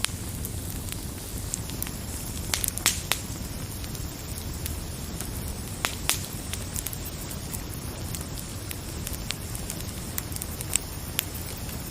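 Wood fire crackling: irregular sharp pops and snaps, a few louder ones near the start and about halfway, over a steady low rumble of burning.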